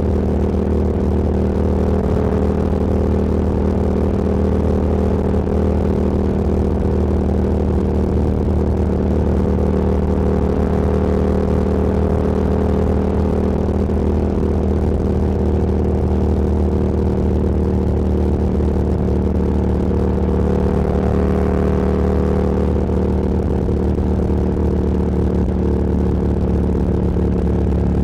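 Motorcycle engine running at a steady cruising speed with an even engine note that holds constant pitch, with road and wind noise.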